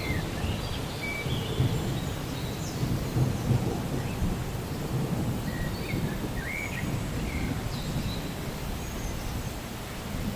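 Steady rain with a low, uneven rumble of thunder underneath. A few short, faint high chirps come through over the rain.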